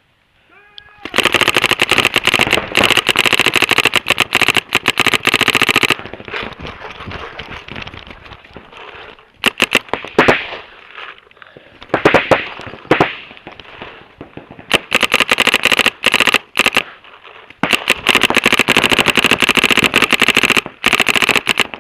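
Paintball markers firing long, rapid strings of shots, with scattered single shots and a few louder separate pops between the strings.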